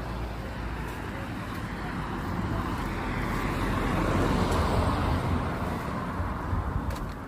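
Road vehicle passing: a steady rush of tyre and engine noise that swells to a peak about four to five seconds in, then fades away.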